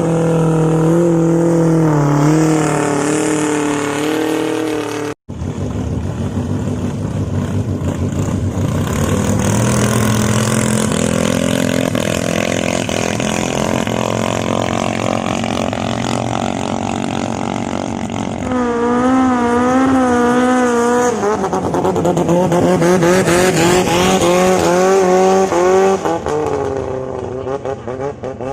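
Longtail boat engines running hard at high revs, their note wavering up and down. The sound cuts out briefly about five seconds in, then the engines continue with a slowly rising note through the middle.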